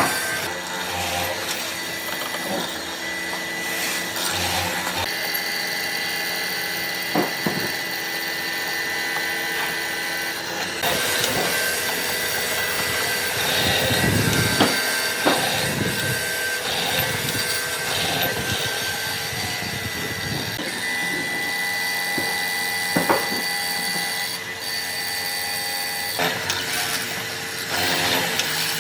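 Electric power tool running steadily while working wood, with grinding or cutting noise and occasional knocks from the workpiece.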